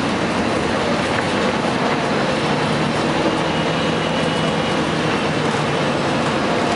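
2004 Gillig Phantom transit bus with its Cummins ISM diesel running, a loud steady mechanical noise with a faint high whine briefly in the middle.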